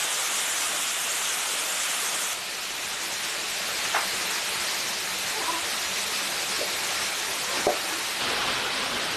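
Steady rushing of a forest stream's running water, with a few light knocks about four, five and a half and nearly eight seconds in.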